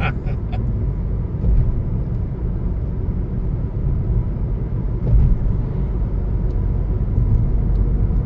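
Car driving on a country road, heard from inside the cabin: a steady low rumble of engine and tyre noise, with two brief louder jolts about one and a half and five seconds in.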